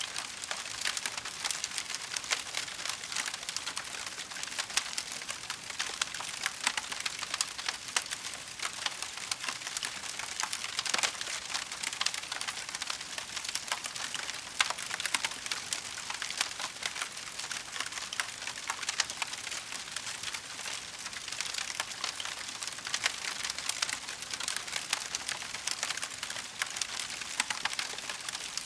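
Wood fire crackling: a dense, continuous run of small pops and snaps over a steady hiss.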